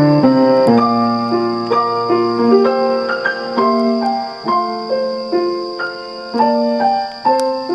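Background piano music, a slow gentle melody of sustained notes.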